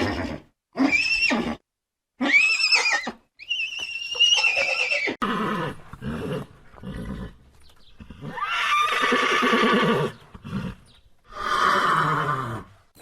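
Horse neighing over and over: several short, high whinnies in the first five seconds, then longer, rougher neighs, the last one falling in pitch near the end.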